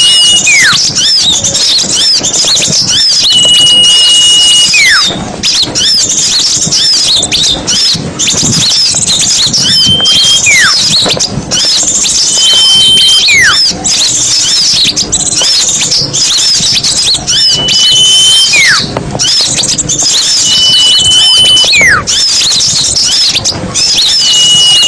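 Dense, busy chattering of many small songbirds, as played in a recorded lure track for trapping small birds. A clear whistle held on one note, then a falling whistle, repeats every three to four seconds over the chatter.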